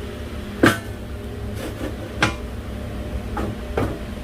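Sharp knocks of steel stove parts and a metal square being handled and set against each other during assembly: a loud one under a second in, another a little after two seconds, and two fainter ones near the end, over a steady low hum.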